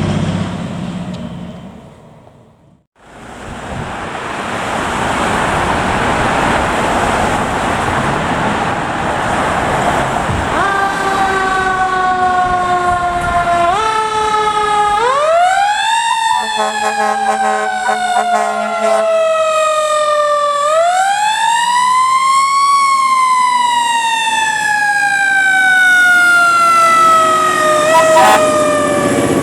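Fire truck responding: engine and road noise, then a siren that winds up and slowly falls away in long wails, twice, with a steady horn blast under it in the middle.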